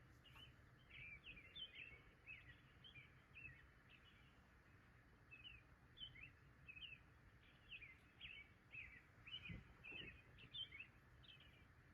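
Faint bird chirps, short sweeping notes repeated a few times a second, over a steady low rumble of background noise.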